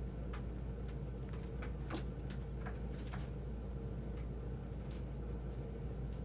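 Steady low background hum with scattered light clicks and taps, most of them in the first three seconds.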